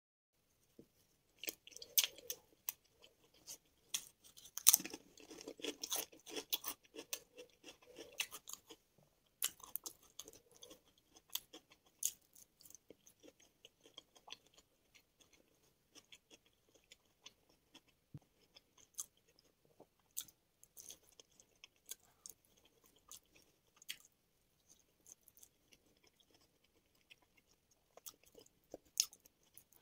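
Close-miked chewing of a mouthful of food with crisp crunches, as of biryani rice and a salted potato chip. The crunching is loudest and densest in the first ten seconds, then gives way to softer, sparser chewing, with a few louder crunches near the end.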